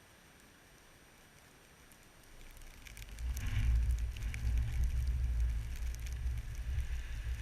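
Blizzard wind gusting over the microphone: a faint hiss, then a low, unsteady buffeting rumble that swells in about two and a half seconds in.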